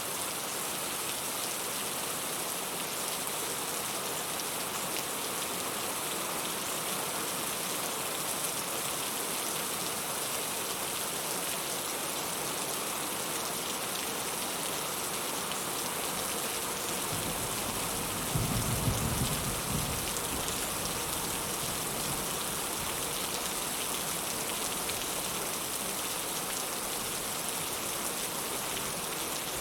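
Steady heavy rain pattering on surfaces, with a short low rumble of thunder about two-thirds of the way through.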